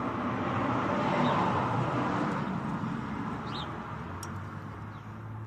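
A vehicle passing by, its tyre and engine noise swelling and then slowly fading, with a short bird chirp about three and a half seconds in.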